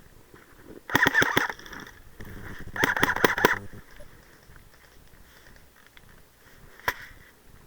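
Airsoft electric gun firing two short bursts of rapid shots, then a single shot near the end.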